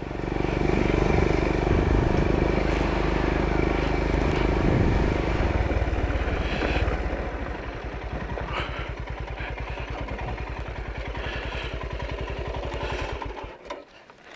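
Royal Enfield Himalayan's single-cylinder engine running, louder in the first half, then settling to an even, rapid idle thump about six seconds in. It cuts off near the end as the engine is shut off.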